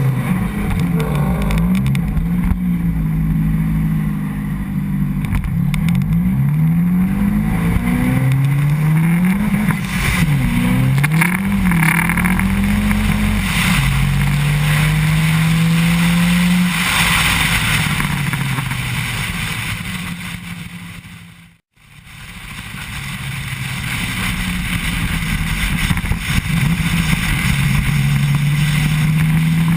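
Saab engine swapped into an Opel Kadett E, revving hard in short full-throttle pulls through second and third gear: the engine note climbs, drops at each gear change and climbs again. The sound fades out and back in about two-thirds of the way through, then a long steady rise in revs follows.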